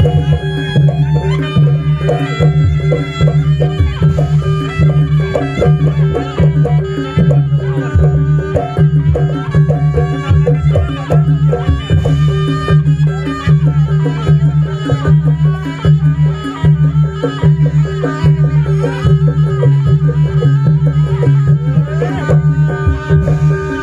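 Traditional jaranan buto ensemble music: fast, busy drumming with a wavering melody line over steady low sustained tones.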